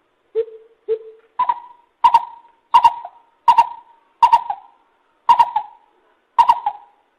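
Lesser coucal calling: two low hollow notes, then a series of seven higher hollow notes repeated about every three-quarters of a second.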